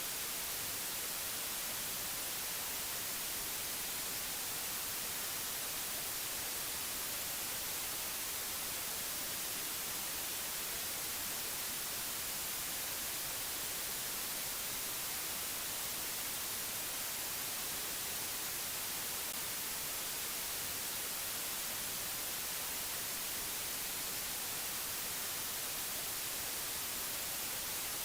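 Steady, even hiss like white noise, brightest in the treble, with no tones, clicks or changes in level.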